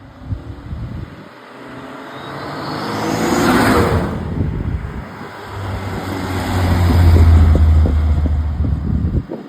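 A Japanese performance car accelerating hard past, its engine rising in pitch to a loud peak about three and a half seconds in. A second loud, deep rumble follows from about five and a half seconds in and cuts off near the end.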